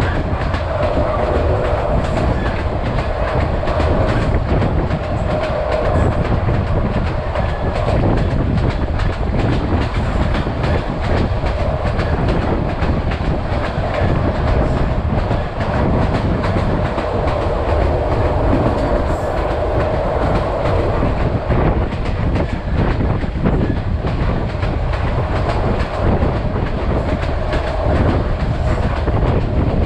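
Vietnam Railways SPT1 passenger train running along the line, its wheels clattering over the rails, with a steady drone throughout.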